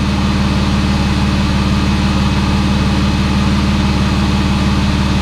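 BMW E36's straight-six engine idling steadily and evenly on fresh spark plugs, with no misfire or stumble: the misfire caused by water in a cylinder is cured.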